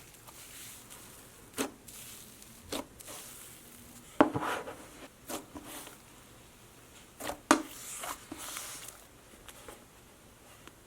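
Plastic slime containers being handled and set down: a series of sharp knocks and clicks, the loudest about four and seven and a half seconds in, with rubbing and rustling between them.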